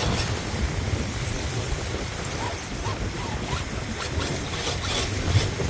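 Strong wind buffeting the microphone: a steady low rumbling rush with no letup.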